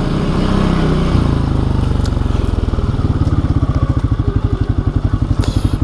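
ATV engine running under the rider at low speed, its note shifting about a second in and settling into a fast, even pulsing chug from about three seconds in as it creeps along the trail.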